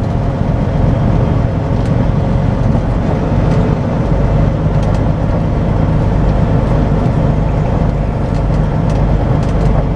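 A semi truck's diesel engine running steadily, with little change in its sound.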